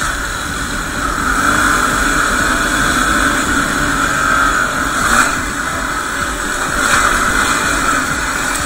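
Yamaha WR250R's single-cylinder four-stroke engine running while riding, its pitch dipping and rising a few times as the throttle changes.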